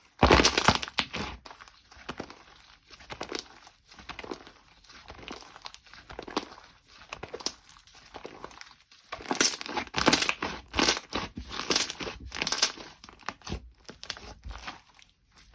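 Slime being squeezed and worked by hand, giving dense crackling and crinkling, heaviest about a second in and again from about nine to thirteen seconds in.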